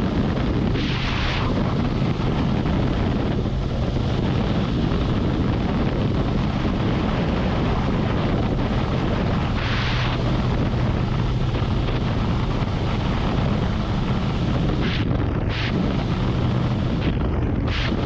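Harley-Davidson Road Glide's V-twin running at a steady cruise, mixed with heavy wind rush on the microphone. Brief louder rushes of hiss come about a second in and again around ten seconds.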